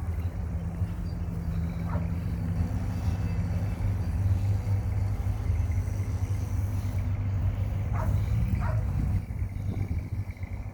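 Car engine idling with a steady low rumble, with a few short sharp sounds over it about two seconds in and twice near the end.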